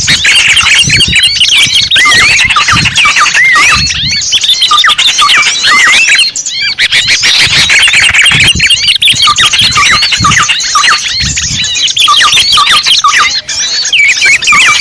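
A dense chorus of small birds calling, with many quick chirps sweeping up and down that overlap without a break, as used in a recording for luring small birds.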